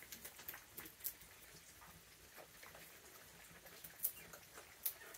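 Raccoons eating treats: a few scattered short clicks and crunches over a faint background, two sharper ones near the end.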